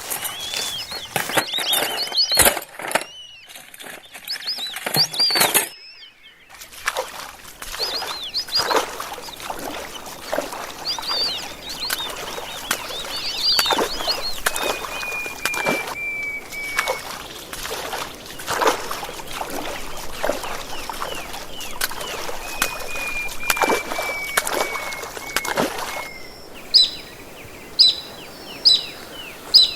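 Rainforest birds calling: many short, sharp calls over a steady background hiss, with a long, slowly falling whistle twice. The soundscape changes abruptly about six seconds in and again near the end.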